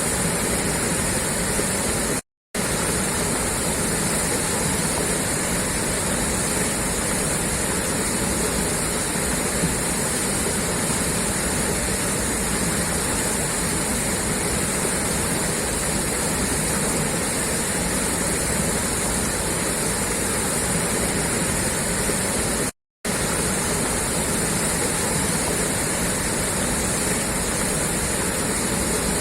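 Water gushing steadily out of a pipe outlet, a constant rushing noise that cuts out to silence for a split second twice.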